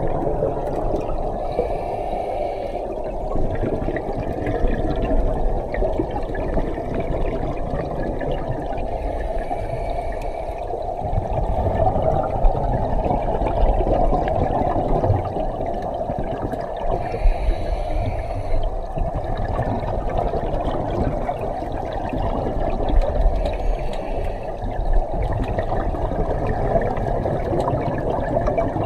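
A steady rushing noise with an uneven low rumble underneath, unbroken throughout.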